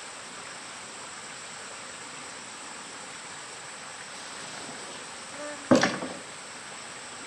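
Steady high-pitched insect buzz in the background, with a single sharp knock about three quarters of the way through.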